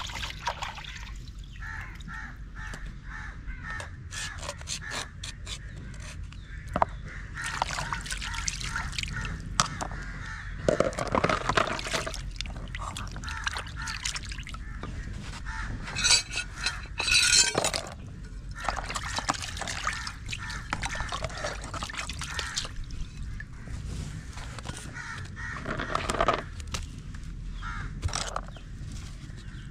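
Birds cawing again and again, with scattered knocks and clatter.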